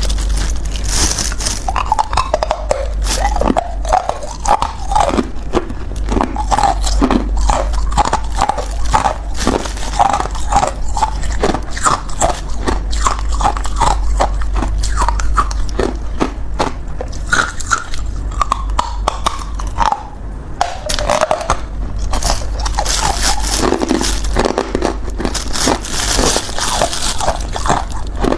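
A person biting and chewing ice close to the microphone: dense, rapid crunching and cracking, with no pause.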